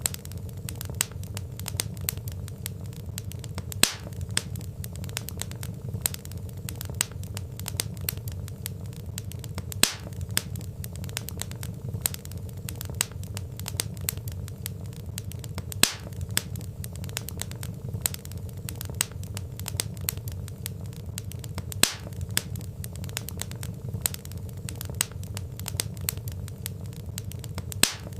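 Wood fire crackling in a fireplace: a dense run of small snaps and pops over a steady low rumble, with a louder pop about every six seconds.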